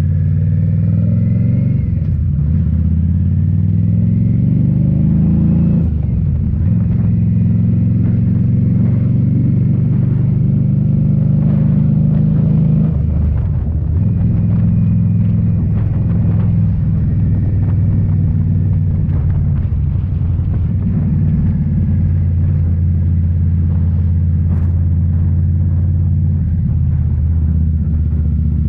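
Indian Scout Bobber's 1133 cc V-twin running through Rinehart slip-on mufflers while riding. The exhaust note climbs in pitch and drops back several times as the bike accelerates and shifts gears.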